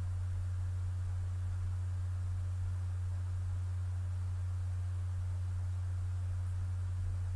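A steady, unchanging low electrical hum, a single low tone with faint hiss above it.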